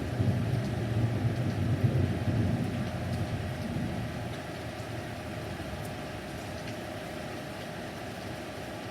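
Steady rain, with a low rumble of thunder at the start that fades away over about four seconds.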